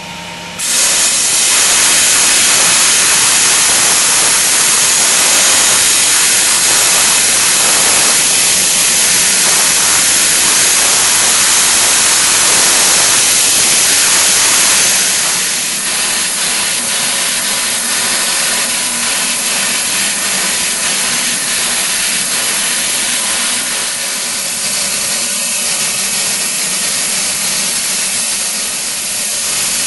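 Dymet cold spray gun spraying aluminium powder: a loud, steady compressed-air hiss that starts about half a second in and drops a little in level about halfway through.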